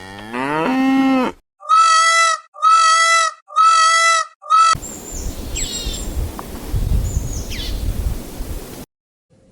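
Animal calls: one rising call, then four short, same-pitched calls about a second apart. These are followed by several seconds of outdoor rumbling noise with two high, falling bird chirps, which cut off about a second before the end.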